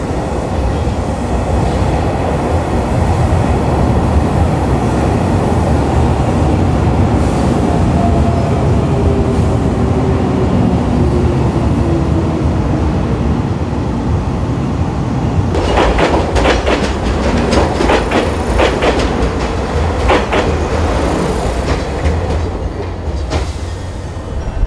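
A train running past on the rails: a steady heavy rumble with a slowly falling whine through the middle. About two-thirds of the way in comes a run of sharp wheel clacks over the rail joints, lasting several seconds.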